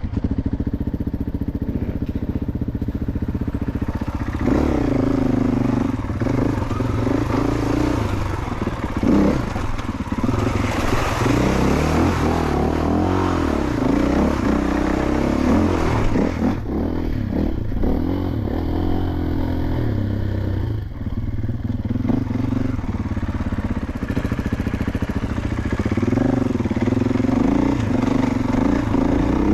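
Dirt bike engine running and revving, its pitch rising and falling repeatedly as the bike rides.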